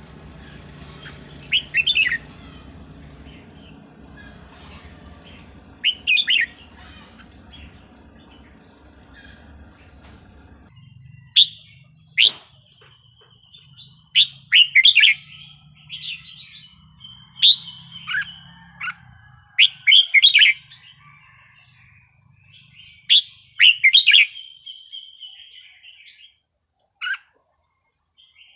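Red-whiskered bulbul singing: short, bright warbling phrases, sparse at first, then coming every second or two from about ten seconds in. A low steady hum lies under the first part and stops abruptly about ten seconds in.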